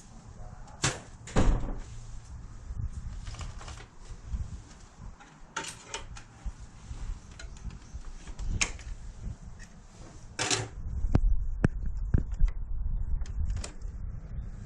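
Scattered clicks and knocks of objects being handled, a few of them sharper, with a low rumble coming in about two-thirds of the way through.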